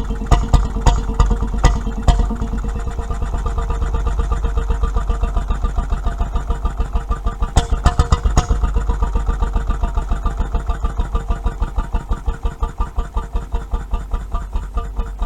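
Petter M 1½ hp stationary engine being shut down. Its sharp firing beats stop about two seconds in, and the engine then runs down on its flywheels with an even, gradually slowing and fading pulse.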